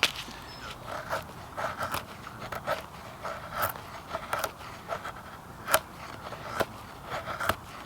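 Dry kindling wood being broken and worked by hand for a campfire: irregular sharp cracks and snaps, a dozen or so, with scraping in between.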